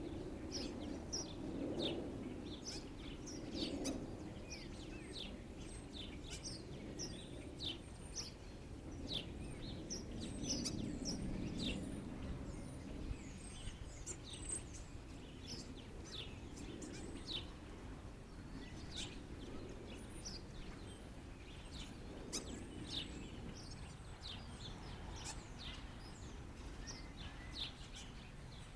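A flock of blackbirds chirping throughout, many short, quick calls that drop in pitch, over a low background rumble.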